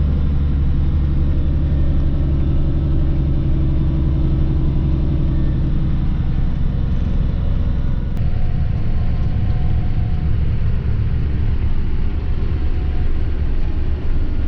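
A vehicle engine running steadily with a deep rumble; its low hum eases a little about halfway through.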